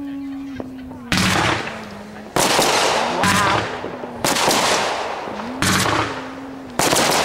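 Aerial fireworks bursting: about six loud booms, roughly a second apart, each trailing off in crackle.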